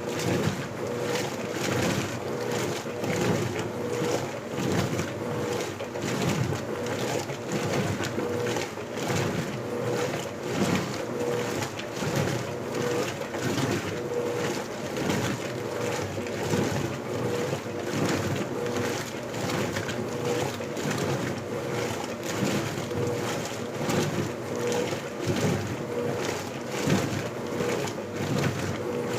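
Electrolux LBU15 top-loading washing machine agitating a load in water on turbo agitation. The motor hum pulses as the agitator drives back and forth, with a steady rhythm of water swishing.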